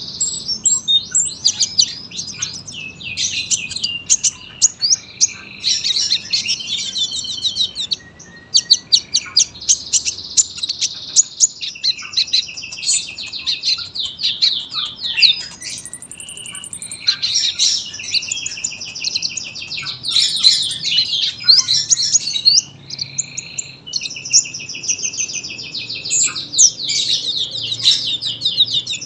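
A kolibri ninja sunbird singing long, rapid, high-pitched chattering trills, phrase after phrase with only brief pauses.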